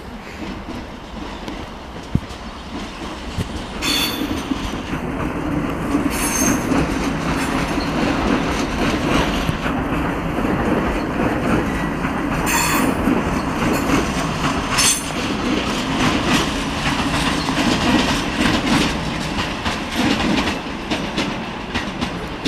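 An Ivolga electric multiple-unit commuter train running past: a steady rumble of wheels on rails that grows louder about four seconds in. Brief high-pitched wheel squeals cut through it four times.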